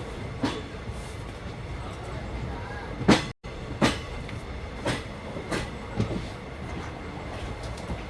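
Train ride heard from inside a passenger carriage: a steady low rumble with a hiss of running noise, and irregular sharp clacks and knocks from the wheels and carriage. The loudest knock comes about three seconds in, and the sound cuts out for a split second just after it.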